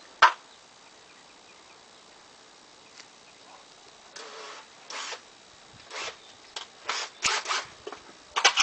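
A single sharp click just after the start, then a few seconds of quiet, then a run of short scrapes and clicks from things being handled.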